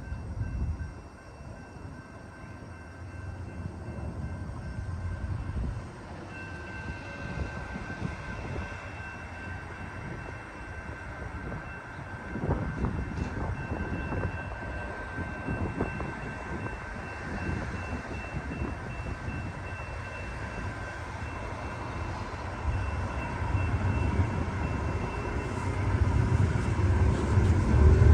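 Distant rumble of an approaching freight train's diesel locomotives, swelling steadily louder over the last few seconds as the train nears. Two faint, steady high tones sound through most of it.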